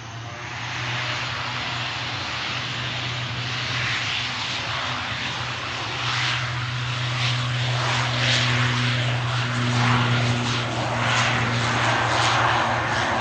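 Aer Lingus airliner's engines running at take-off power on its take-off roll, a steady engine roar with a low hum, growing gradually louder.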